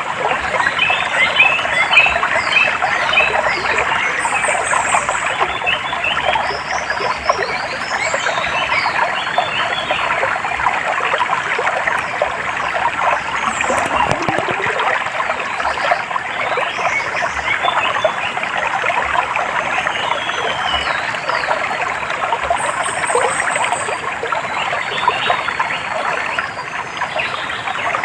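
Steady trickling, running water, with birds chirping and calling in short high notes over it throughout.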